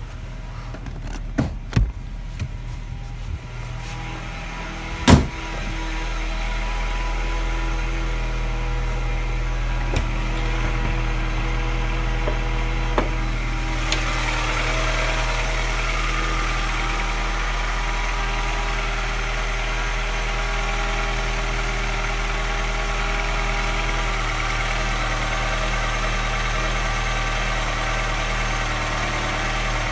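Car engine idling with a tap and a slight miss, the tapping that the owner hears get louder when the revs drop, giving it a clattery note like a London taxi. There is a sharp click about five seconds in, after which the engine runs a little louder and steady.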